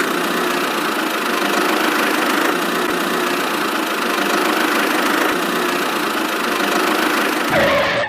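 Homemade mini tractor's motor running steadily, with an even mechanical rattle throughout.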